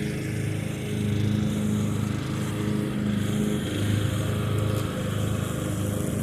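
Craftsman riding lawn mower engine running steadily under load, a low even hum whose note shifts slightly a little past halfway.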